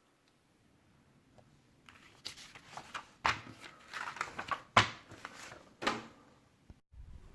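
Handling noises of packaging and kettle parts being unpacked: rustling and scraping starting about two seconds in, with three sharp knocks.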